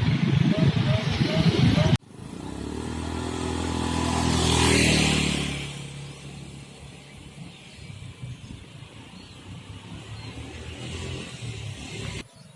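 Road traffic: after a sudden cut, a motor vehicle's engine hum swells as it passes close, loudest about four and a half seconds in, then fades into lower background traffic noise.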